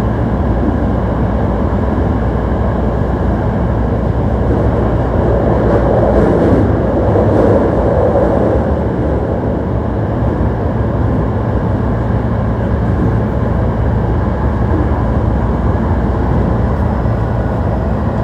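Hankyu 1300 series electric train running, heard from inside the car: a steady rumble of wheels on rail, swelling slightly about halfway through.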